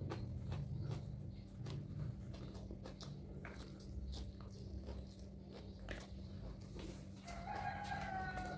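Close-up chewing of raw lalapan vegetables: irregular small crunches and wet clicks over a steady low hum. Near the end a single drawn-out call sounds in the background, one held note falling slightly in pitch for a little over a second.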